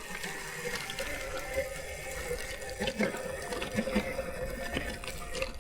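Nexvey Flash electric dirt bike riding over a rough, rocky trail: a steady motor whine under a noisy rush, with scattered knocks and clatter as it goes over rocks, most around the middle.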